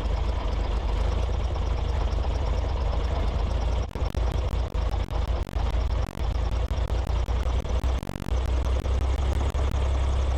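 An engine running steadily with a deep low hum. Between about four and eight seconds in, the sound breaks up and drops out several times.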